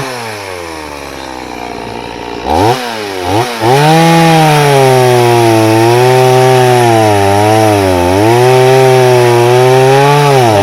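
Two-stroke chainsaw engine dropping back toward idle, blipped twice about two and a half seconds in, then held at high revs from about four seconds on, its pitch sagging and recovering as the chain works through jatobá wood.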